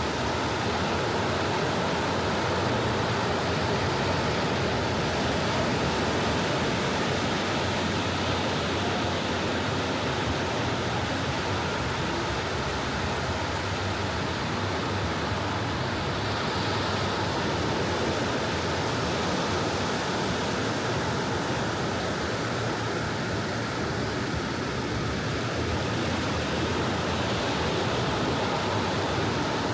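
Small ocean waves washing on a beach, heard as a steady, even rush of surf with no distinct breaking swells standing out.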